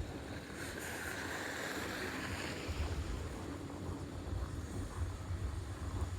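Wind buffeting the microphone in a steady low rumble, over a hiss of noise.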